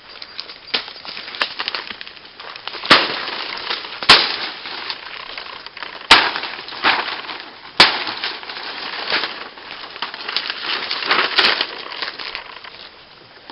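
A hard babassu palm nut being broken open by a series of sharp blows, four loud cracks a second or two apart. Between them, crackling and splintering of the woody shell.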